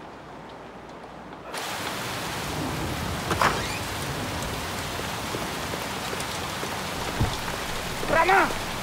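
Quiet room tone cuts suddenly, about a second and a half in, to heavy rain pouring down on a street. Near the end a man's voice calls out briefly over the rain.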